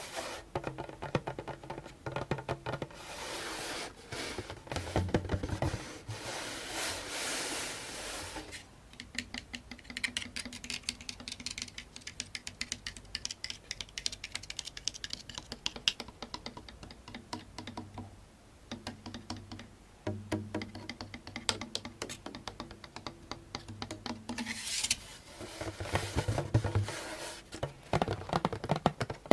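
Fingertips and nails tapping rapidly and scratching on a djembe, its skin giving low drum tones under the fast taps. A few stretches of louder scratching, a few seconds in and again near the end.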